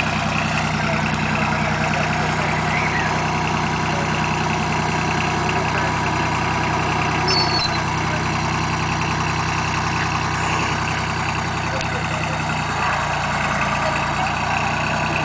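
John Deere 950 tractor's diesel engine running steadily at a constant speed.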